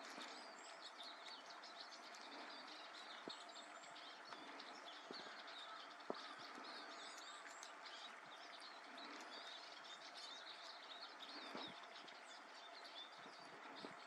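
Small birds chirping faintly, many short high chirps and twitters overlapping one another over a soft hiss.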